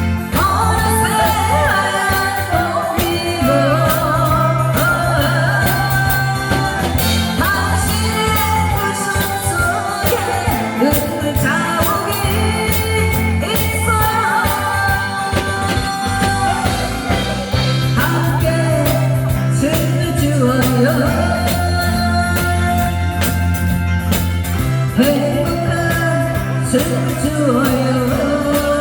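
A singer performing a song over backing music with a steady, repeating bass line; the sung melody wavers and glides between held notes throughout.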